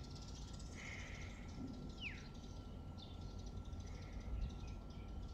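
Birds calling in the background: a few short calls and one quick downward-sliding call about two seconds in, over a low steady rumble.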